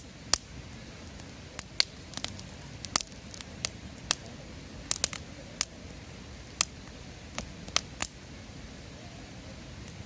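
Wood campfire crackling: irregular sharp pops and snaps, thickest in the middle and dying away about two seconds before the end, over a low steady rumble of the flames.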